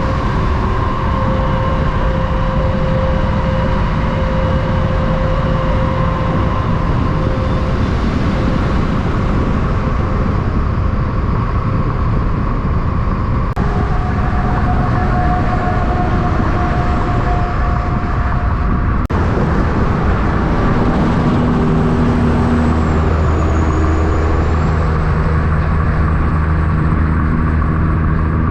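Road traffic with semi trucks and cars driving past, a steady mix of engine and tyre noise. It changes abruptly twice, and a deeper engine comes up near the end.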